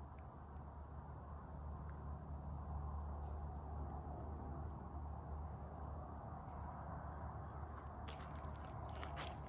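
Insect chirping: short, high chirps repeating about twice a second over a low, steady rumble, with a few light clicks near the end.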